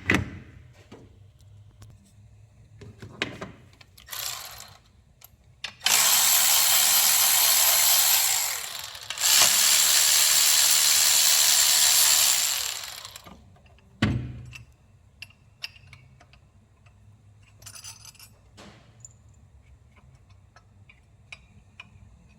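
Power tool running in two long stretches, about two and a half seconds and then about four seconds, with a brief break between. Around them are small clicks and clanks of tools on the engine, and a single thump after the second stretch.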